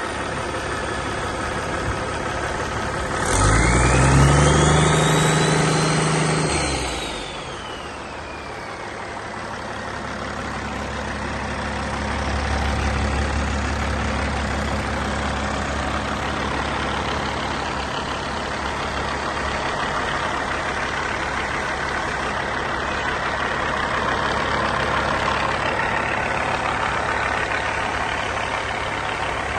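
Caterpillar 3406E 14.6-litre inline-six turbo diesel idling. About three seconds in it is revved up briefly, with a turbo whine climbing and then falling away. It then settles back to a steady idle.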